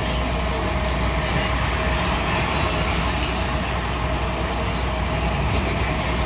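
Scania P340 truck's diesel engine and road noise heard from inside the cab while driving: a steady low drone with an even hiss that does not change.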